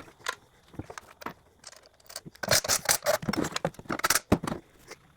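Handling noises: a series of separate clicks and knocks, with louder rattling clatter about halfway through and again a little later.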